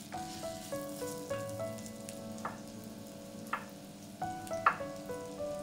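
Sliced onions sizzling as they fry in oil in a pan, under soft background music with a simple stepping melody. A few sharp knocks about halfway through and near the end.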